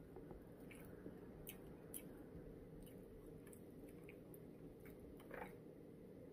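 Faint chewing with soft, irregular mouth clicks, about one every half second to second, over a low room hum.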